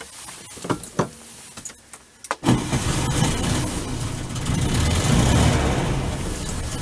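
A 1969 Volkswagen Beetle 1500's air-cooled flat-four engine starting up: a few sharp clicks, then the engine catches suddenly about two and a half seconds in and keeps running.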